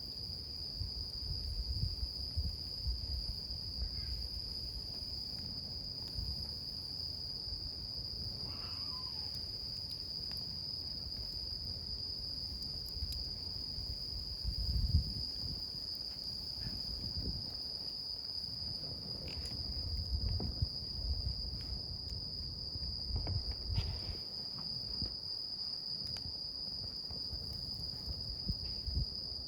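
A steady, high insect trill in one unbroken note, over the low rumble of a wood fire that swells now and then, with a few faint crackles.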